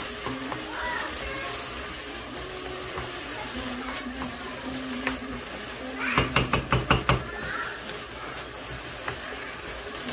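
Potatoes and tomatoes sizzling as they fry in a non-stick pan, stirred with a wooden spatula. About six seconds in comes a quick run of about six knocks.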